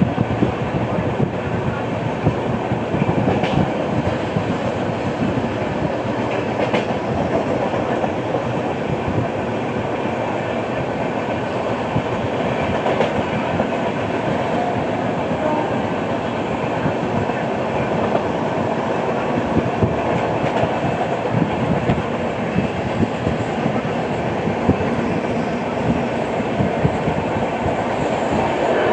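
Passenger express train running at speed, its wheels clattering continuously over the track, with the knock of a flat-spotted wheel.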